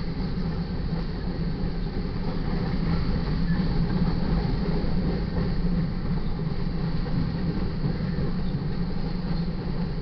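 Loaded covered hopper cars of a freight grain train rolling past close by: a steady rumble of steel wheels on the rails.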